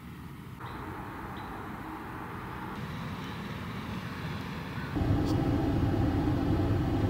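Car running, a steady rumble of engine and road noise that grows louder about five seconds in.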